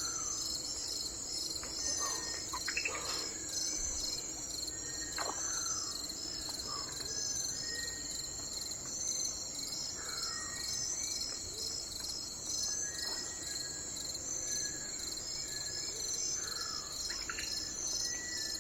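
Steady chorus of insects, a high continuous pulsing trill, with short falling whistled bird calls every second or two over it.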